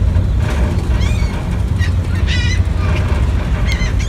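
Gulls giving short squawking calls several times over a steady low rumble.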